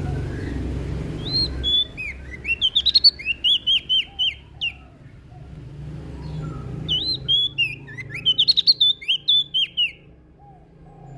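Prenjak daun (leaf warbler) singing in two bursts of rapid, high chattering notes that sweep up and down, with a pause between, over a steady low background hum.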